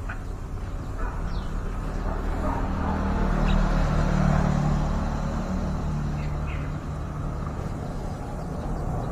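A motor vehicle passing, its low engine hum swelling to a peak about four seconds in and then easing off, with a few faint short bird chirps over it.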